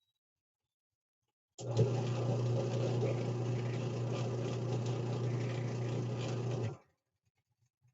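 Washing machine drum turning during the wash: after a pause, the motor starts about a second and a half in and runs with a steady low hum for about five seconds, then stops abruptly. This stop-start rhythm is the drum tumbling in bursts.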